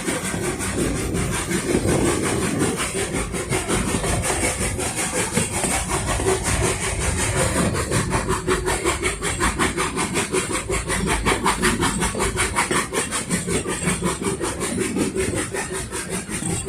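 Narrow-gauge steam train under way behind locomotive 8A, an NA class 2-6-2T tank engine. The sound is a fast, even rhythmic beat that grows more distinct in the second half.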